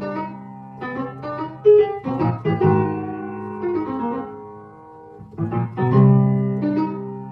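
Background piano music: struck chords and a melody, with notes held and fading between new strikes.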